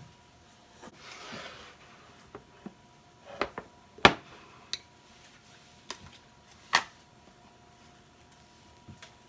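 Kitchen handling sounds: a brief rustle about a second in, then a few sharp clicks and knocks of utensils or dishes, the loudest about four seconds in and another near seven seconds, over a faint steady hum.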